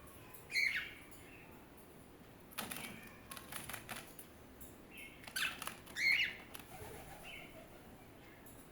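Pet birds chirping and fluttering: two short, sharp chirps, about half a second in and again around six seconds, with scratchy bursts of rustling and wing flaps between them.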